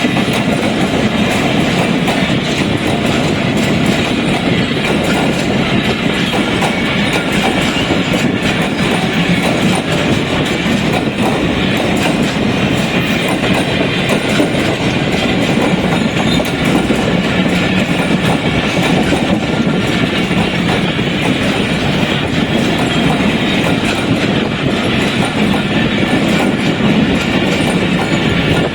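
A train running steadily along the track, with a constant rumble and the noise of wheels on rails.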